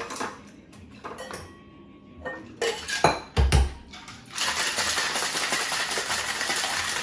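Ice cubes clinking into a metal cocktail shaker tin, a heavy thump as the tins are sealed about three and a half seconds in, then ice rattling steadily as the cocktail is shaken hard.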